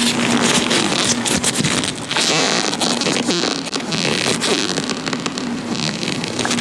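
Latex-gloved hands rubbing, crinkling and squeaking right against a microphone, a continuous dense crackle with many sharp little clicks.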